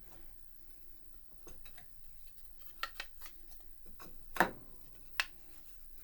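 Wooden piano keys and small action parts being handled and set down: scattered light clicks and taps, with a sharper knock about four seconds in and another a second later.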